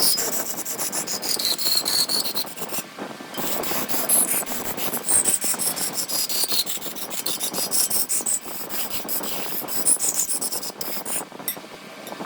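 A tool held against sapele wood spinning on a large lathe, making a rough, grainy noise topped by a high whine that wavers in pitch. The sound breaks off briefly twice, about three seconds in and near the end, as the tool lifts off the wood.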